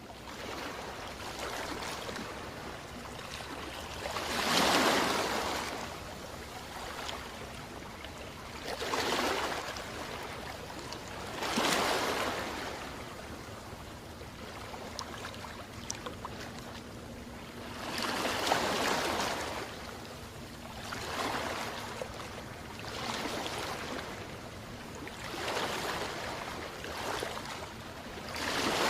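Sea waves breaking against a seawall: a steady rush of water, with about eight louder surges of crashing surf a few seconds apart.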